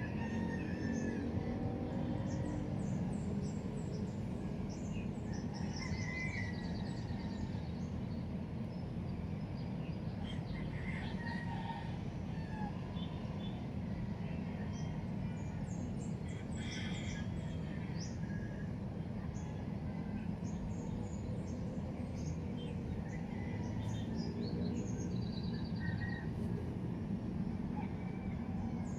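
Many small birds chirping on and off throughout, over a steady low background rumble.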